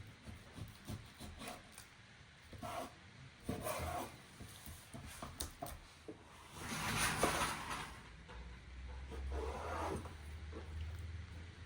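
Scattered handling noises of food preparation: short rubs and scrapes, with one longer scraping rush about seven seconds in and a low hum setting in soon after.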